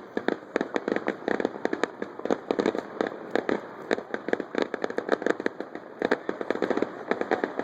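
Fireworks going off in rapid, irregular succession: a dense run of sharp pops and bangs, several every second.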